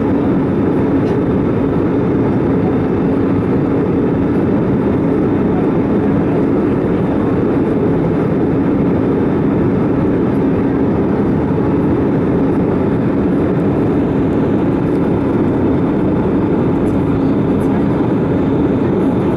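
Steady, loud drone of an Airbus A320 in flight, heard from inside the passenger cabin: engine and airflow noise with a constant low hum.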